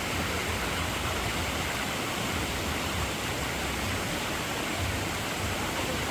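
Steady rushing of river water running over falls, an even hiss with no let-up.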